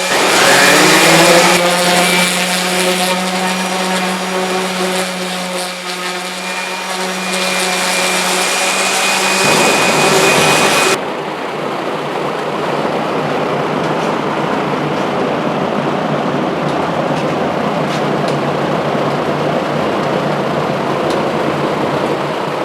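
An electric power tool's motor spins up, rising in pitch, and runs with a steady whine for about ten seconds. It then gives way to a duller, even machine noise that carries on steadily.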